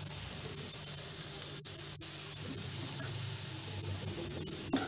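Avisa (agathi) leaves and boiled chana dal sizzling steadily in oil in a wide metal pan, with the masala powder just added.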